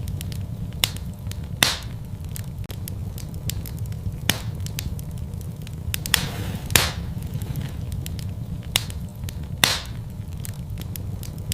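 Wood fire burning in a fireplace: a steady low rumble with frequent crackles and a few louder, irregular pops of the burning logs.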